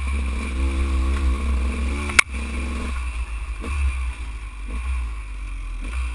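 Dirt bike engine running as it is ridden, its note wavering with the throttle, over a steady low rumble of wind on the helmet-mounted camera. A single sharp click about two seconds in, after which the engine note changes.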